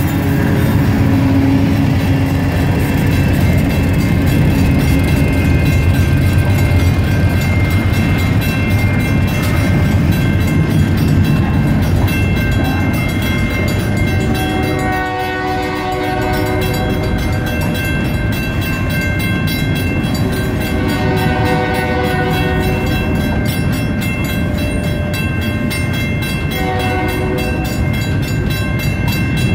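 Diesel freight locomotive passing close by, its engine rumble heaviest in the first seconds, followed by a long string of loaded flatcars rolling past with a steady rumble of wheels on rail. Several steady high tones ring over the rumble.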